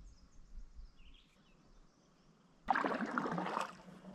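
Quiet water, then about two and a half seconds in a canoe paddle stroke swishes and splashes through the water for about a second.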